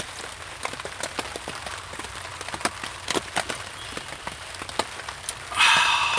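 Rain falling on a tarp tent, individual drops tapping irregularly over a steady light hiss. A short, higher-pitched squeak comes near the end.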